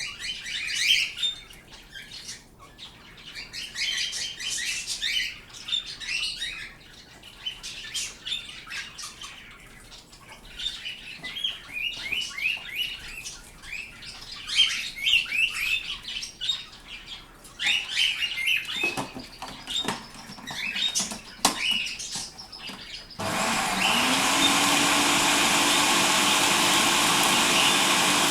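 Pet birds chirping and calling in quick, repeated short notes. About 23 seconds in, an electric kitchen chopper's motor starts abruptly and runs steadily and loudly, drowning them out.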